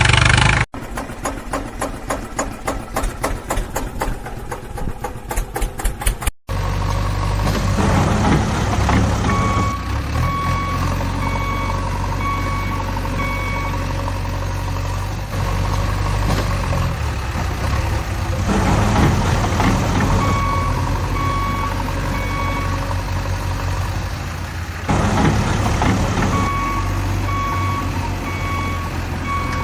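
A rapid rhythmic engine clatter for the first few seconds, cut off abruptly. Then a heavy vehicle's engine runs steadily, and a reversing alarm beeps about twice a second in three spells.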